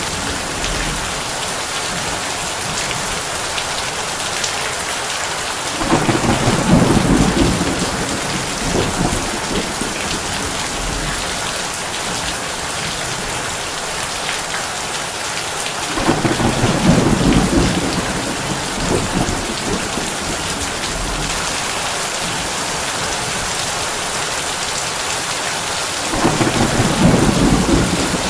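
Heavy rain drumming steadily on a tin roof, with low thunder rumbling three times, about ten seconds apart, each swell lasting two or three seconds.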